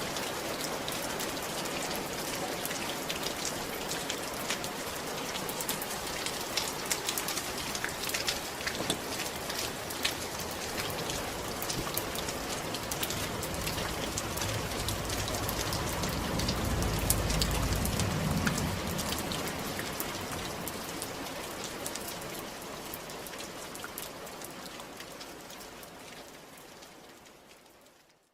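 Steady rain falling on a roof: an even hiss dotted with the ticks of individual drops. A low rumble swells briefly past the middle, and the rain fades out near the end.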